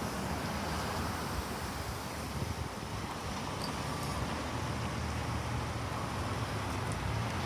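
Steady rolling noise of a train passing on the rails, with some wind on the microphone.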